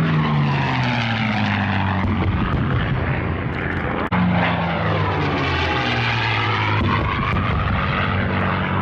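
Piston-engined warbird fighters making low passes, the propeller engine drone dropping in pitch as each one goes by. There is a short break about four seconds in, then another plane passes with the same falling pitch.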